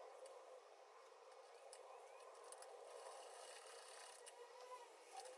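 Near silence: faint room tone, with a few light clicks.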